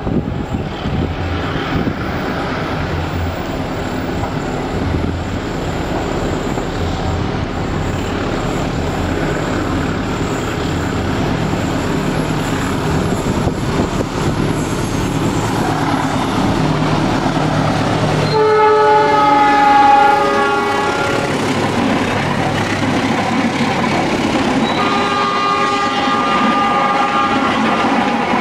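Diesel-electric locomotive of a passenger train approaching, its engine running with a rumble that grows louder. About two-thirds of the way in it sounds a several-note horn for about three seconds, then a second horn blast near the end as the coaches start rolling past.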